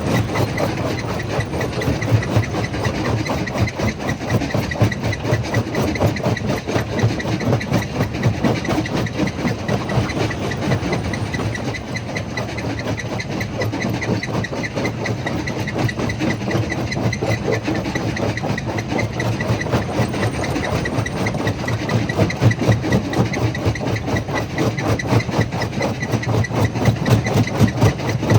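Stone jaw crusher running steadily: a low mechanical drone with a dense, fast, even rattle.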